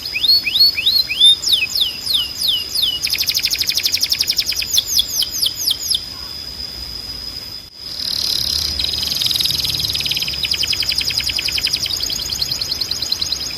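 Timbrado canary singing: runs of repeated swooping notes alternating with fast, even trills. The song dips briefly about halfway through, then carries on in rapid trills.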